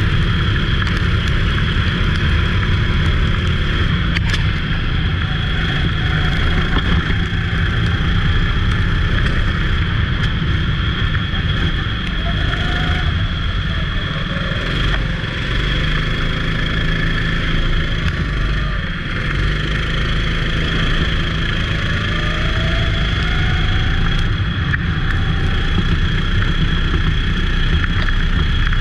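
Racing kart engine running continuously under load, a steady heavy rumble with the revs rising in a few short climbs.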